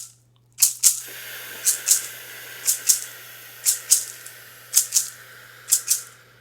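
A shaker rattling in a steady rhythm, two quick shakes about once a second, over a steady hiss.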